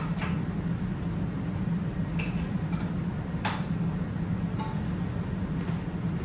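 A steady low hum, with a handful of short, sharp clicks and taps from parts being handled on the snow blower.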